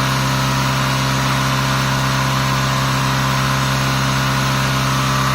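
Tongtai 510 vertical machining center milling a base plate: a steady, loud cutting drone over a strong low hum, the sound likened to a helicopter.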